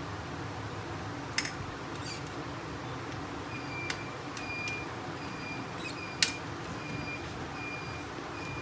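A few sharp clicks and knocks of printer parts being handled and fitted during reassembly, the loudest about six seconds in, over a steady low hum. From about three and a half seconds in, a short high tone repeats about twice a second.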